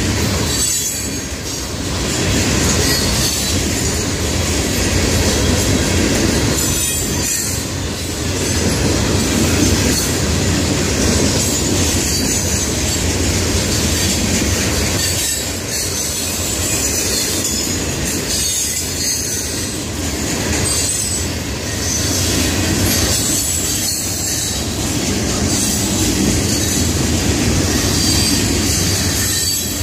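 Freight train of loaded rock hoppers and gondolas rolling past: a steady loud rumble of steel wheels on rail, with high wheel squeal over it and small dips as car ends go by.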